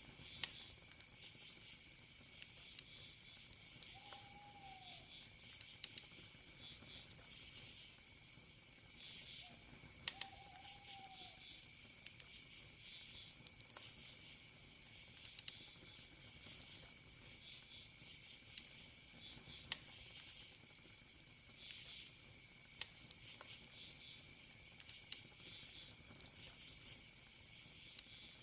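Campfire crackling faintly, with scattered sharp pops, over a steady chorus of crickets. Twice, a short low call rises and falls.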